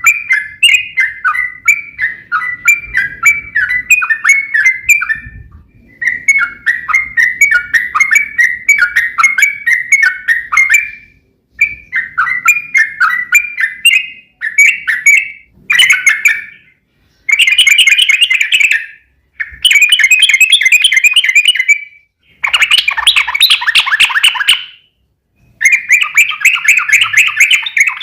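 Yellow-vented bulbul (trucuk) song, loud and chattering. It starts as a run of quick, bubbly falling chirps, several a second, with brief breaks. From about halfway it becomes longer, rapid rolling trills of two to three seconds each, the long 'ropel' roll used to lure other trucuk into answering.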